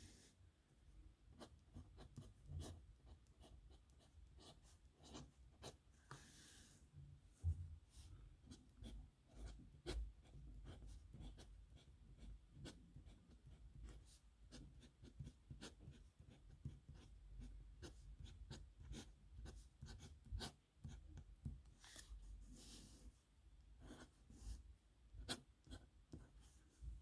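Pen scratching faintly across paper in many short strokes and ticks, with a couple of longer scraping strokes about six seconds in and again a little past twenty seconds.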